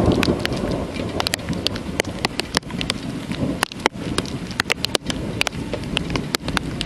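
Thunderstorm rain, with many drops striking close by as sharp, irregular ticks over a steady hiss. The tail of a low thunder rumble dies away about a second in.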